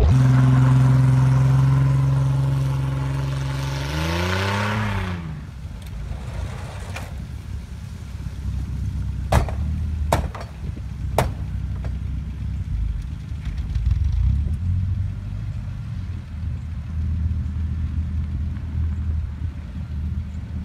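A vehicle engine runs at steady high revs, climbs briefly in pitch and drops away after about four seconds, then settles into a low, uneven rumble. Three sharp clanks come in the middle.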